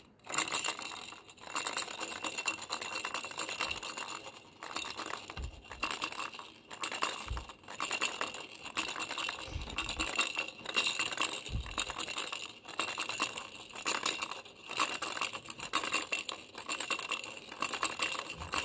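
Baby rattle shaken in repeated bursts, roughly one shake a second, a dense clatter with a high ringing through it. A few brief low thumps come near the middle.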